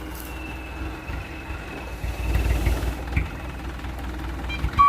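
Mitsubishi Canter dump truck's diesel engine running with a low rumble that grows gradually louder as the truck moves forward. A reversing beeper starts right at the end.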